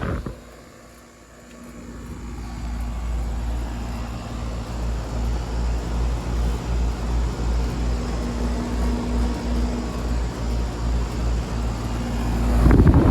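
Outdoor heat pump condensing units, a Ducane and a Trane XR, running: a steady low compressor hum under the rush of the condenser fan, with uneven low rumbling. A loud noisy surge comes near the end.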